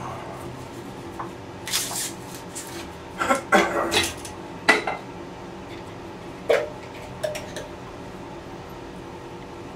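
Hard objects clattering as they are handled: a run of knocks and clinks a couple of seconds in, a few more spaced out after, over a steady low hum.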